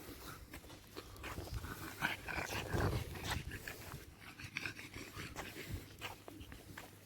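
Pet dog sounds close by, with scattered small clicks and scuffs; the loudest stretch comes about two to three and a half seconds in.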